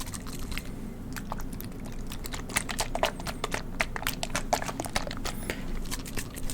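Eye-drop bottle and Expo whiteboard-cleaner bottle handled close to the microphone: a run of irregular sharp clicks and crackles, densest in the middle.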